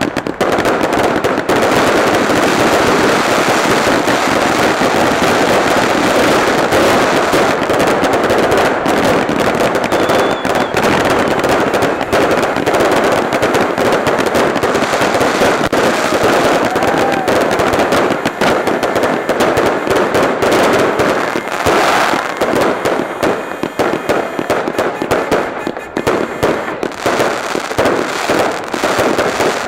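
Fireworks display: a dense, continuous barrage of bangs and crackling that breaks into more separate pops in the last third.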